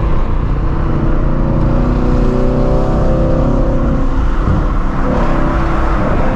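Straight-piped 2016 Shelby GT350's 5.2-litre flat-plane-crank V8, with long-tube headers, droning steadily at cruising speed.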